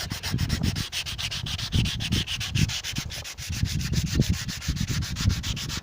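Fine 180-grit sandpaper rubbed by hand over the metal rain gutter of a 1948 Buick Special in quick, even back-and-forth strokes. This is the final smoothing of the metal after a coarser 80-grit pass.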